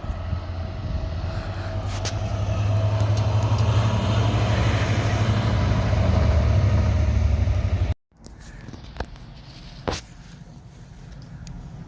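Train engine running: a loud, low rumble with a steady hum that grows louder over the first few seconds, then cuts off abruptly about eight seconds in. After that only a quieter background remains, with a couple of sharp clicks.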